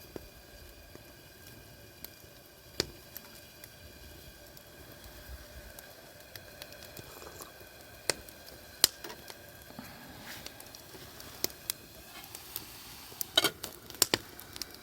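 Wood campfire crackling: irregular sharp pops and snaps over a faint steady hiss, with a cluster of louder pops near the end.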